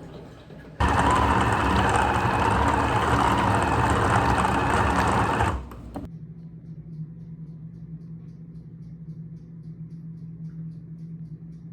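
A small electric motor appliance switched on and running loudly for about five seconds, then switched off, leaving a quieter low steady hum.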